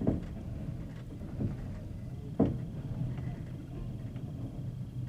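Passenger train wheels running over jointed rails: a steady low rumble with knocks as the wheels cross the rail joints, the loudest clack about two and a half seconds in.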